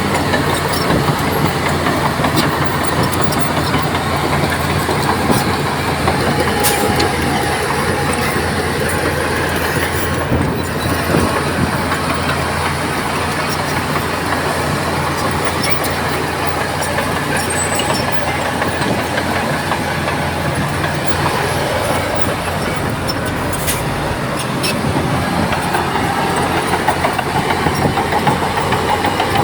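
Crawler bulldozer's diesel engine running steadily under load, with the clatter of its steel tracks and a couple of sharp metallic knocks.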